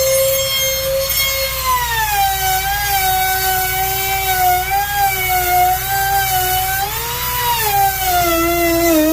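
Electric flush-trim router running and cutting wood: a high motor whine that sags and recovers in pitch as the bit takes the cut.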